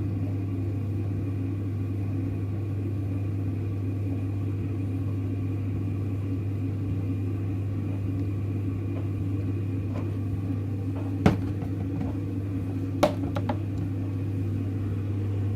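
Steady low electrical hum, like a running appliance, with two brief knocks about eleven and thirteen seconds in.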